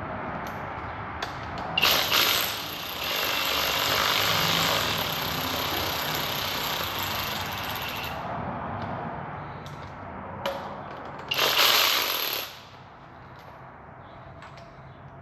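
Cordless power tool running exhaust manifold bolts down until they seat: a short burst about two seconds in, a run of about five seconds with a steady high whine, then another short burst near the end.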